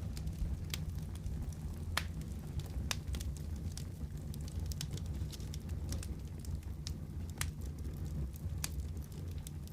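Wood fire burning in a fireplace: a steady low rumble of the flames with irregular sharp crackles and pops, a dozen or so scattered through.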